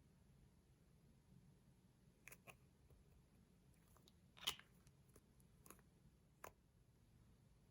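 Near silence broken by a handful of short, soft crackles and clicks from slime being handled, the loudest about four and a half seconds in.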